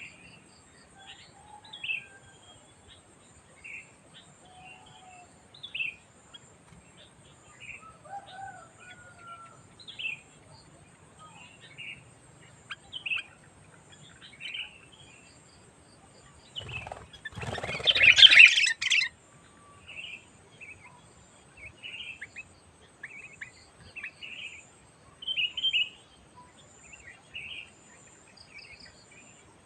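Sooty-headed bulbul calling: short, sharp chirps repeated about once a second, with a few lower, softer notes among them. Near the middle comes a much louder, noisy burst lasting about two seconds.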